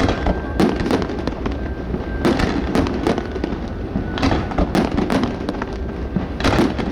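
Fireworks display going off: many sharp bangs in quick succession with crackling between them. The bangs come thickest about two seconds in, around four to five seconds in, and near the end.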